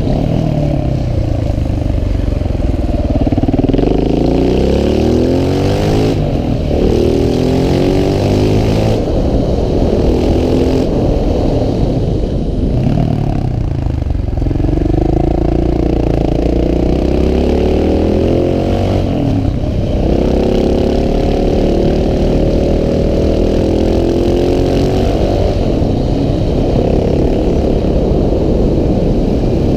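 KTM 690 SMC R's single-cylinder engine under way uphill, its revs climbing and falling again and again as it works through the gears. The throttle closes and the engine note drops sharply several times, around 6, 9, 13 and 19 seconds in.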